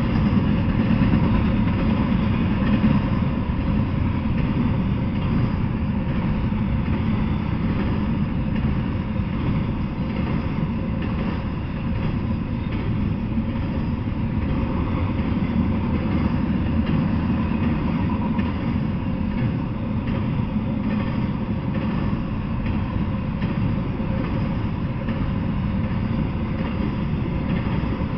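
Double-stack intermodal freight train rolling past: a steady rumble of wheels on rail that keeps up without a break.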